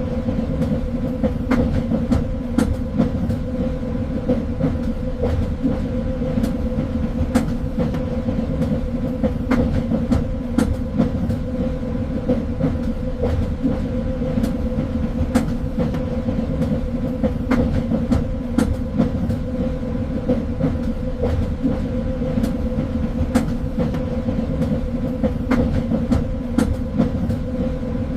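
Train running along the track: a steady low rumble with a constant hum, and irregular clicks and knocks from the wheels and carriage.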